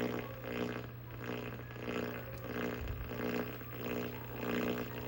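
Distorted VHS tape playback audio: a steady low hum under a buzzy sound that pulses in a regular beat, about three beats every two seconds.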